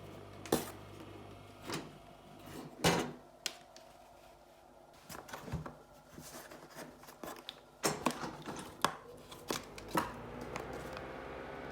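Irregular plastic clicks and knocks from a Mitsubishi kitchen ventilation fan being handled. Near the end the fan motor starts, a steady hum rising slightly in pitch.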